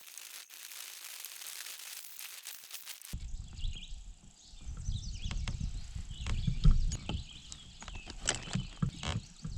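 Kayak paddling: water splashing and trickling off the paddle for about three seconds, then an abrupt change to wind buffeting the microphone, a few knocks and birds chirping.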